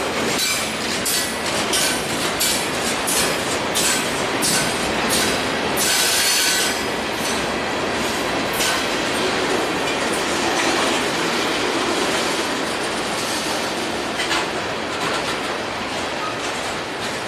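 Freight train cars rolling past, wheels clacking over the rail joints with short, high-pitched squeals, busiest in the first half.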